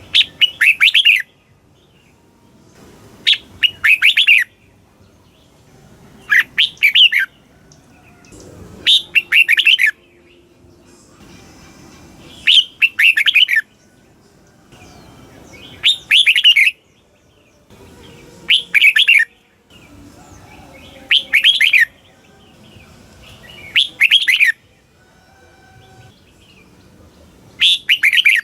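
Red-whiskered bulbul singing: short, loud, warbling phrases of about a second each, repeated about every three seconds, ten times.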